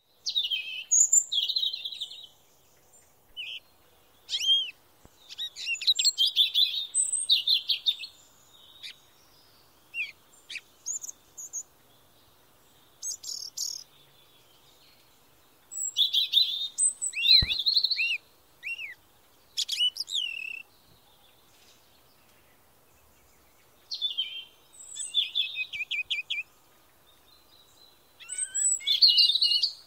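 Songbirds singing in short phrases of high chirps, trills and quick up-and-down whistles, with pauses of a second or more between phrases.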